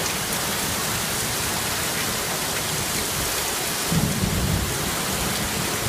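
Steady heavy rain falling, with a brief low rumble, taken for thunder, about four seconds in.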